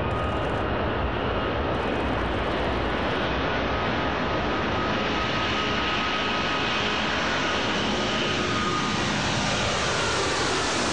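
Airplane engines at takeoff power: a steady, loud rush of engine noise with faint whining tones, unbroken throughout.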